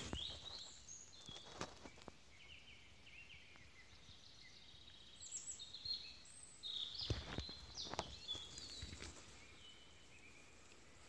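Songbirds singing in the woods, short repeated chirps and warbled phrases, with a few crunching footsteps and rustles on stony soil near the start and again about two thirds of the way through.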